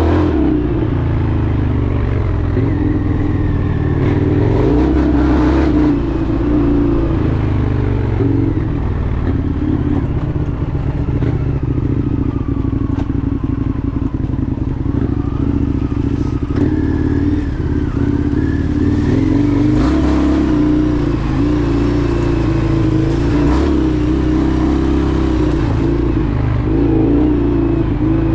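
Indian FTR 1200's V-twin engine running while the bike is ridden. Its pitch rises and falls with the throttle.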